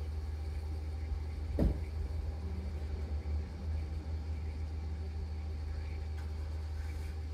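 Steady low rumble of a car heard from inside the cabin, typical of the engine idling, with one sharp knock about a second and a half in.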